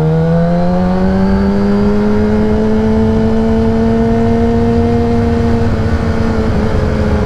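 Kawasaki ZX-10R's inline-four engine, fitted with a Graves race exhaust, pulling hard under acceleration. Its pitch climbs through about the first second, then holds steady at high revs, with a low rush of wind underneath.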